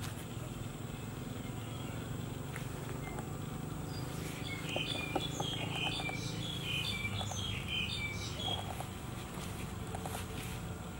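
A bird chirping in quick, broken phrases for several seconds in the middle, over steady outdoor background noise and a thin, steady high whine.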